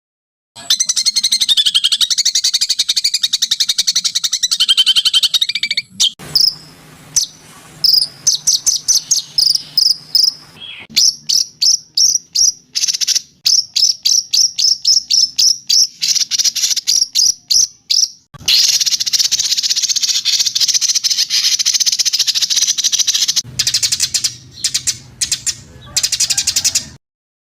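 Recorded songbird song of the kind used to train caged birds: a high buzzy trill, then long runs of quick repeated high chirps at about three to five a second, then another dense insect-like trill near the end.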